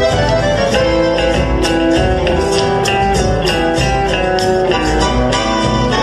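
Argentine folk music played on guitars, with quick plucked and strummed notes.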